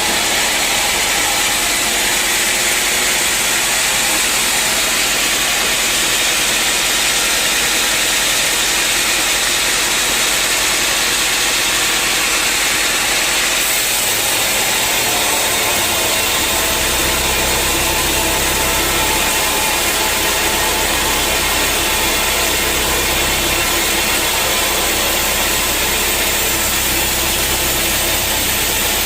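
Sawmill machinery running with a loud, steady engine and mechanical noise while teak is sawn. A deeper hum sets in a little past halfway.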